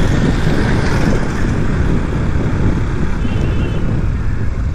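Wind buffeting and road noise on a motorcycle rider's microphone while riding a KTM, a loud, rough rush concentrated in the low end.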